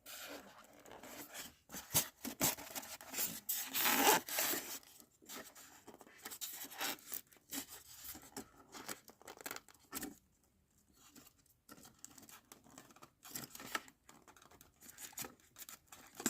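Packaging being handled: plastic and cardboard rustling, rubbing and crinkling in irregular bursts as a model locomotive is worked out of its box, with a quiet spell about ten seconds in.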